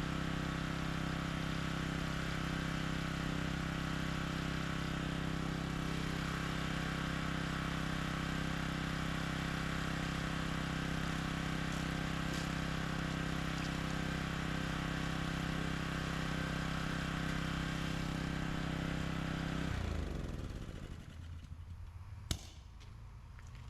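A small engine running at a steady speed, then shut off about 20 seconds in, its pitch falling as it winds down. A single sharp click comes near the end.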